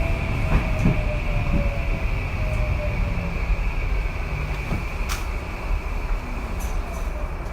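Tokyu 2020 series electric train heard from inside the car as it slows: a steady low rumble from wheels and track, with the traction motors' whine falling slowly in pitch under braking. A single sharp click about five seconds in.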